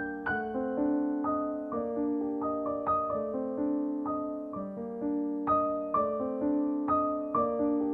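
Gentle solo piano background music, notes struck every half second or so and left to ring.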